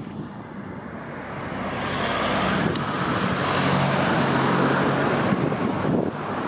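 A car driving past: tyre and engine noise swells over a couple of seconds, holds with a low engine hum, then fades away about six seconds in.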